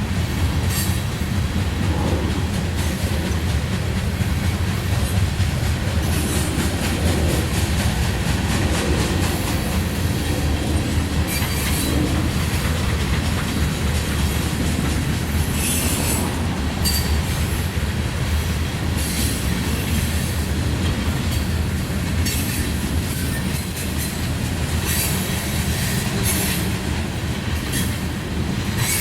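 A train rolling past with a steady low rumble, with frequent sharp wheel clicks and brief high wheel squeals from the cars.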